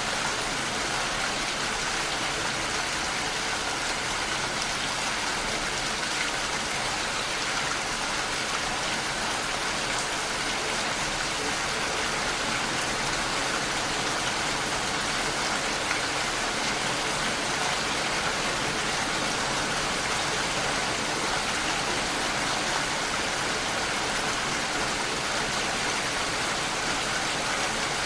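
Steady rain falling against a window pane, an even hiss of drops with no breaks.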